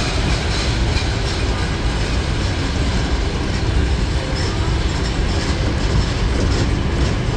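Disneyland parking tram riding along, a steady low rumble of the moving tram.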